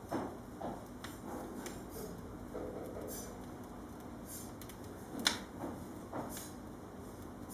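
Wood fire burning in an open fireplace, crackling with scattered small snaps and one sharper pop about five seconds in.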